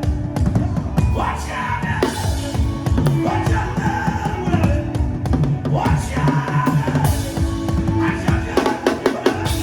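Fast, dense drumming with a voice singing or chanting over it.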